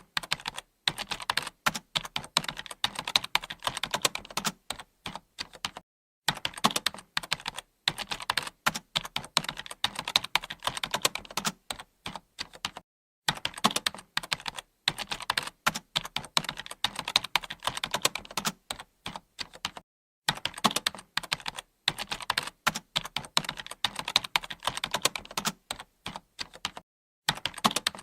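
Typing on a computer keyboard: fast runs of key clicks, several to the second, in bursts of a few seconds with short pauses between them.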